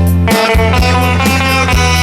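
Music: a guitar playing a song's melody in A minor with long held notes, over a backing track with a steady bass beat.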